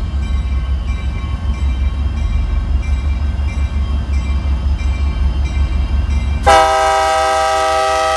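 Low, steady rumble of a train, then a diesel locomotive's air horn sounds one long chord of several notes for nearly two seconds near the end, the loudest sound here.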